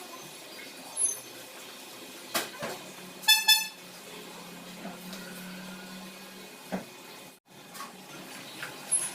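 A vehicle horn beeps twice in quick succession, two short high-pitched toots.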